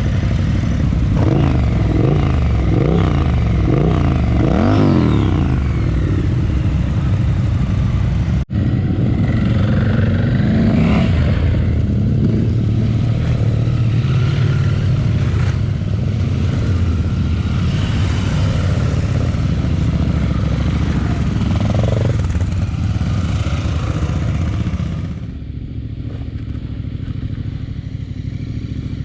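Adventure motorcycles' engines running and pulling away, with pitch rising and falling several times in the first few seconds as they are revved. The sound cuts off abruptly about eight seconds in, then engines run more steadily before dropping quieter near the end.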